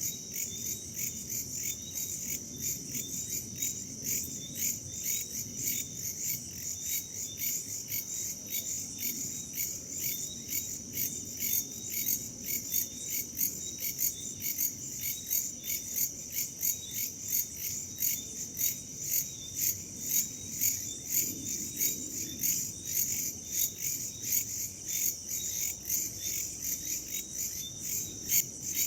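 Chorus of crickets and other night insects: a steady high trill under rhythmic chirping, a few pulses a second, over a low rush of wind.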